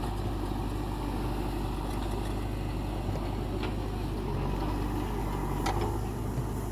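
JCB 3DX backhoe loader's diesel engine running steadily, with a couple of faint clicks partway through.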